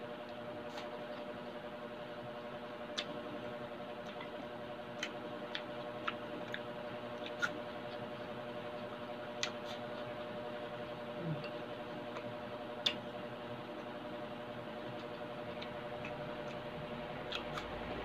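Close-up chewing of crisp apple slices: scattered short crunches and mouth clicks every second or two over a steady low hum.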